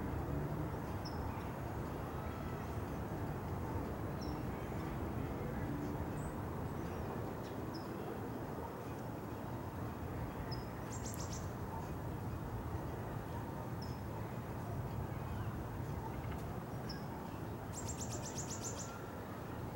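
Small birds chirping: short high notes every couple of seconds, with a quick rattling trill about eleven seconds in and a longer one near the end, over a steady low background rumble.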